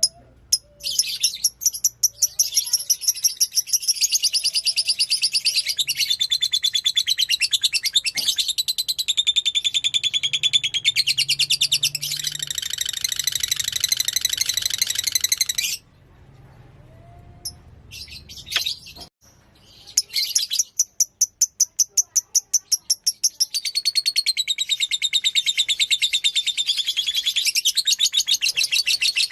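Fighter-type lovebird singing a long chattering song of fast, repeated high chirps. It breaks off for a few seconds about halfway, then starts again.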